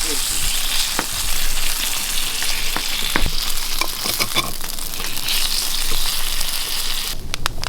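Dry Christmas-tree branches burning in a fire: a dense, steady hissing crackle with scattered sharper pops, cutting off abruptly near the end.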